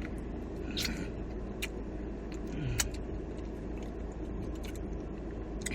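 Chewing, with a few small sharp crunches and mouth clicks spaced about a second apart, over a steady low hum.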